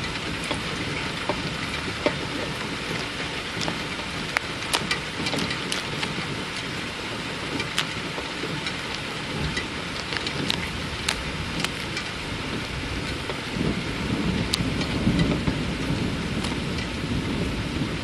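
Steady rain during a thunderstorm, with sharp ticks of drops striking close by. A low rumble of thunder swells about three-quarters of the way through and fades near the end.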